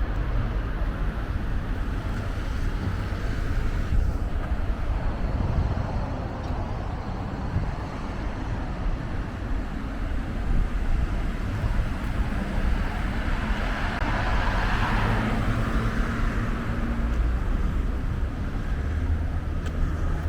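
Street traffic: steady road noise from passing cars, with one vehicle growing louder and passing about two-thirds of the way through.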